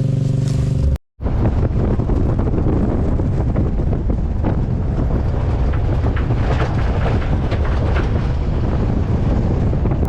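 Wind buffeting the microphone over the rumble of a moving pickup truck, heard from its open bed. A steady engine hum in the first second is cut off by a brief dropout about a second in.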